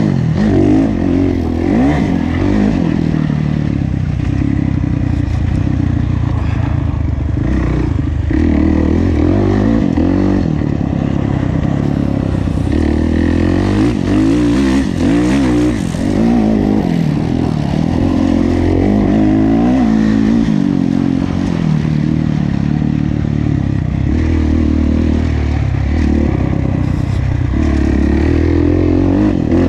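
Kawasaki KX450F's single-cylinder four-stroke engine being ridden hard, its note repeatedly rising under throttle and falling back as the rider opens and closes the throttle and changes gear.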